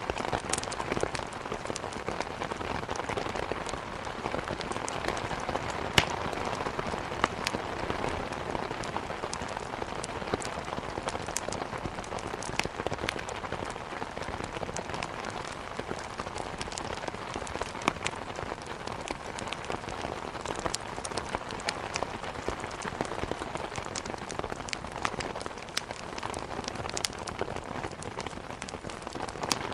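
Steady rain hitting a window, with scattered sharp pops and crackles from burning firewood in a fireplace.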